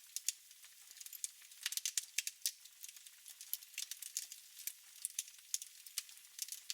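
Wood fire in a fireplace crackling: irregular sharp pops and snaps over a soft hiss, with a denser run of louder pops about two seconds in.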